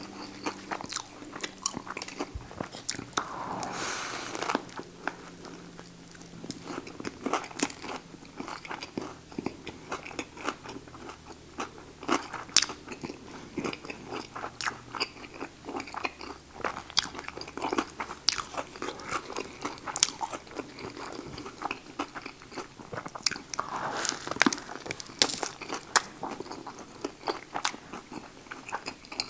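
Close-up biting and chewing of a Subway buffalo chicken sandwich with crisp vegetables such as lettuce, cucumber and green peppers: a steady run of small crunches and clicks.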